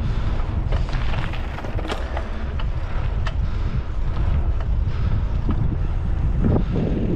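Wind buffeting the microphone while riding a bicycle, a steady low rumble, with scattered light clicks and rattles from the ride.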